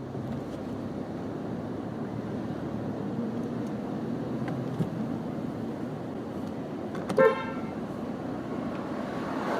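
Steady street traffic noise with one short car horn beep about seven seconds in.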